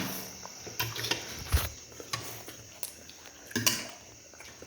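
Utensils clinking and knocking against a dish, about five separate clicks over four seconds, one of them heavier and duller.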